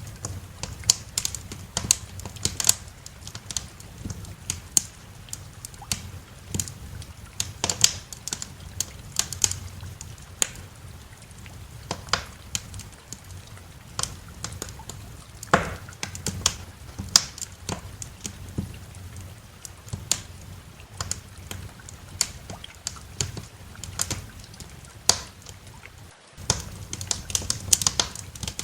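Wood fire crackling in a fireplace: irregular sharp snaps and pops at uneven intervals over a steady low rumble. The sound cuts out for an instant near the end.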